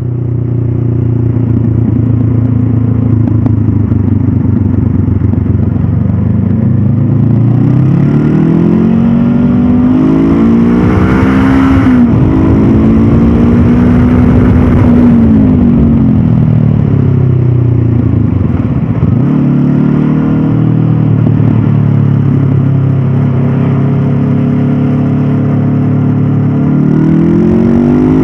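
Stock Honda CB500F's parallel-twin engine running under way. The revs climb from about a quarter of the way in, hold, then fall away as the bike slows, run low and steady, and rise again near the end.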